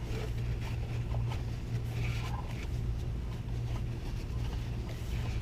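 Steady low hum with a few faint light clicks and knocks.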